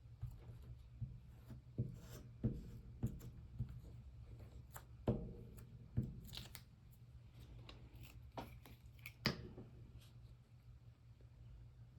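Scissors cutting paper in a series of irregular snips, over a steady low hum.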